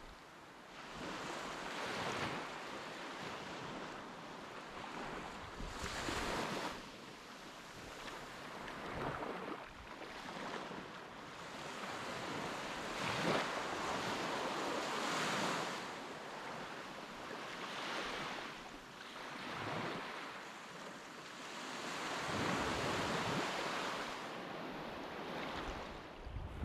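Sea surf and wind, with no tones in the hiss, swelling and fading every few seconds.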